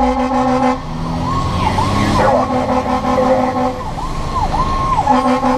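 Fire engine siren yelping, its pitch sweeping quickly up and down about twice a second. A steady, pulsing horn tone sounds over it at the start and again near the end.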